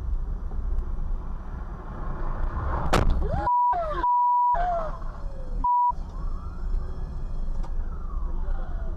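Dashcam audio of low road and engine rumble with a siren wailing up and down. A sharp bang comes about three seconds in, followed by three short censor bleeps.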